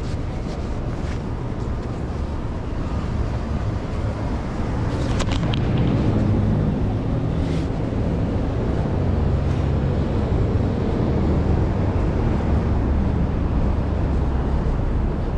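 Traffic on a busy city avenue: a steady rumble of vehicle engines and tyres. A heavy engine's low drone swells about five seconds in and stays prominent, with a few brief sharp clicks near the swell.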